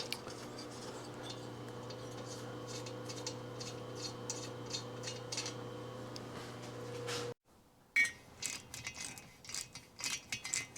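Light metallic clicks and clinks of hand tools and metal parts being handled, over a steady electrical hum. The sound cuts out abruptly about seven seconds in, then scattered clicks resume without the hum.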